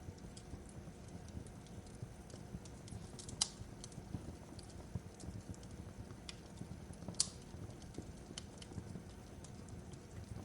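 Fireplace crackling: a low steady rumble of burning wood with scattered sharp pops and snaps, two of them louder, about a third and two thirds of the way through.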